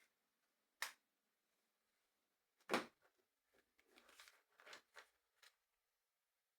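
Plastic LEGO pieces being handled during a build: a sharp click just under a second in, a louder click near the middle, then a run of softer clicks and rustles.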